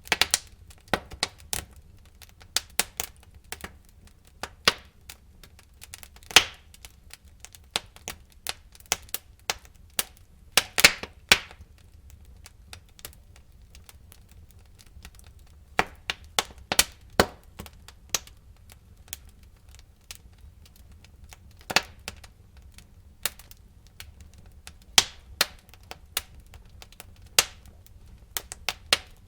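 Wood fire in a fireplace crackling: irregular sharp pops and snaps of burning logs over a low, soft rumble of flame, with a few quieter stretches between bursts of crackling.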